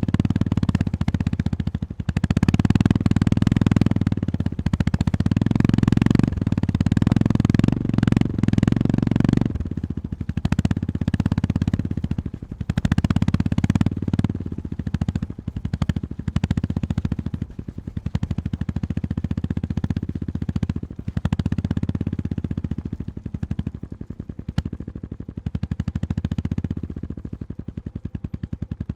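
Honda GB350-series air-cooled single-cylinder engine running under way, a fast even thumping from the exhaust. It pulls hard for about the first ten seconds, then runs softer with repeated dips as the throttle is eased on and off.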